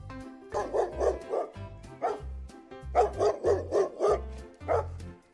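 Dog barking in quick runs of several short barks, over background music.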